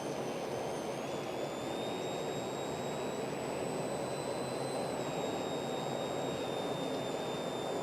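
Steady driving noise of a vehicle on the road: tyre and engine rumble, with a faint high whine that rises slightly about a second in and drops back a little near five seconds.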